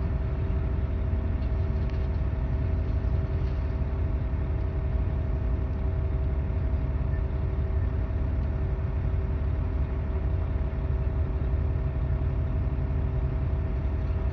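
Heavy diesel equipment engine running steadily, a continuous low rumble with a steady whine over it.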